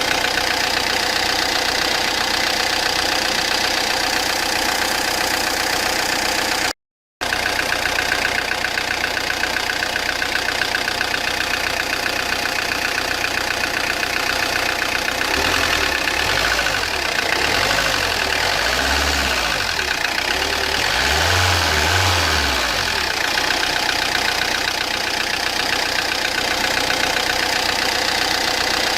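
Peugeot Partner 1.9 diesel engine running with a loud mechanical noise; in the middle its pitch rises and falls a few times. The mechanic suspects wrong timing, with the pistons touching the valves.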